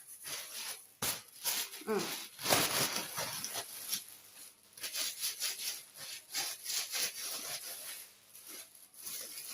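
Plastic bag rustling and crinkling in repeated rubbing strokes as oil is worked around inside it. A brief voice-like sound with a sliding pitch comes about two seconds in.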